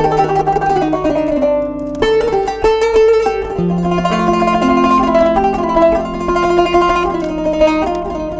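Kanun, the Turkish plucked zither, playing a quick run of plucked notes over longer ringing low notes.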